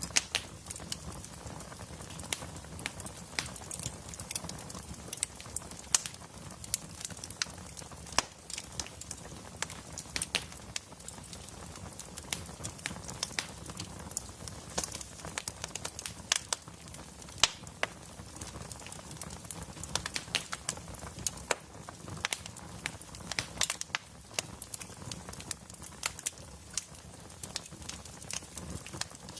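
Wood fire crackling: many irregular sharp pops and snaps over a low, steady rumble.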